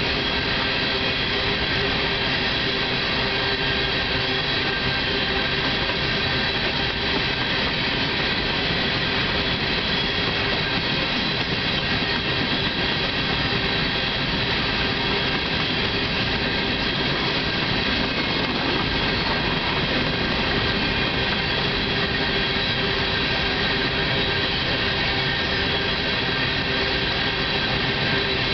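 Freight train of coal cars rolling past at speed: a steady, unbroken noise of wheels running on the rail, with several steady high tones held through it.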